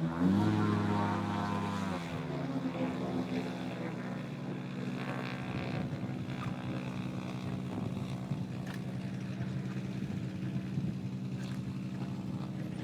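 Light aircraft's piston engine and propeller running with a steady drone; the engine note shifts briefly during the first two seconds, then holds even.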